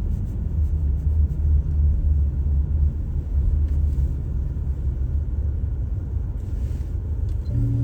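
Car driving on a snowy road: a steady low rumble of road and engine noise.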